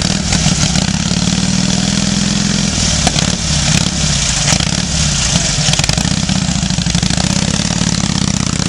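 1940 Indian Chief's V-twin engine running at a steady idle, with a fast, even pulse.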